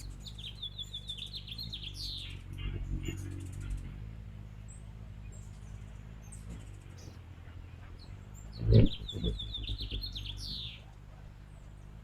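Hummingbirds chattering: a rapid run of high chips lasting a second or two, then a second run near the end, over a low steady hum. Just before the second run comes a dull thump, the loudest sound.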